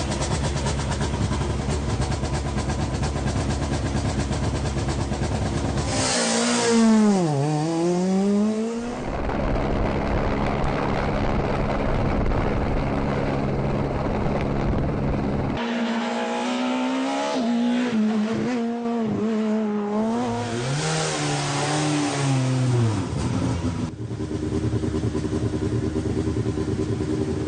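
Rally car engines running hard on a stage: a steady engine note, then revs dropping and climbing again several times through braking and gear changes.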